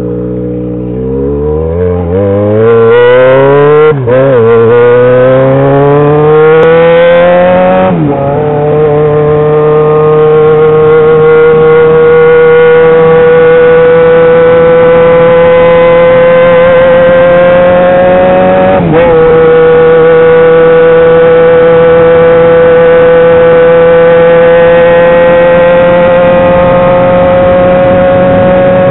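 Yamaha XJ6 motorcycle's inline-four engine, running loud through an exhaust without its baffle, accelerating up through the gears. Its pitch climbs and drops sharply at upshifts about four, eight and nineteen seconds in, then rises slowly and steadily in the higher gears.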